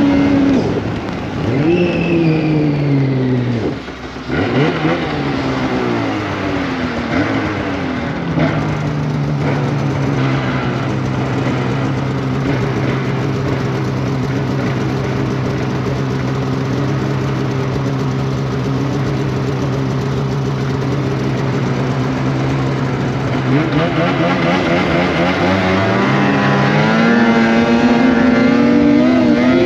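2025 Polaris Indy Cross Country 600's two-stroke twin engine under way: it comes off the throttle and drops almost to idle about four seconds in, picks up again, holds a steady lower pitch for a long stretch, then revs back up to a high pitch near the end.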